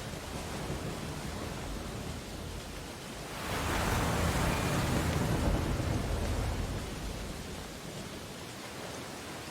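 Ocean waves on a beach: a steady wash of surf, with one wave breaking louder about three and a half seconds in and washing back down over the next three seconds.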